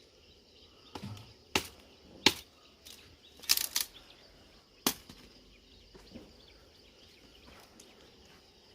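A handful of sharp knocks at irregular spacing, about six, with a quick cluster of three near the middle.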